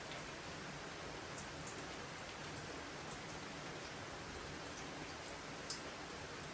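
Steady rain falling through a storm, with scattered sharp ticks of single drops striking nearby; one tick is louder near the end.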